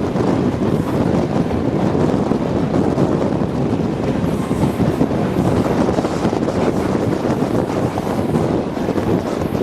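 Heavy wind buffeting the microphone: a loud, steady rumble that drowns out any other sound.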